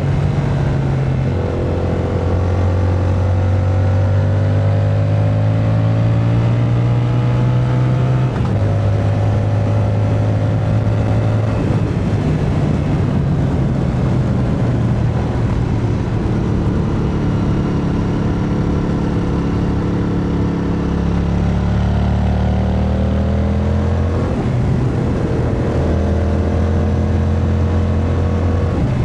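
Yamaha MT-07's 689 cc parallel-twin engine under way, rising in pitch as it accelerates and dropping at gear changes about a second in, about eight seconds in and about 24 seconds in, easing off in the middle, over a steady rush of wind.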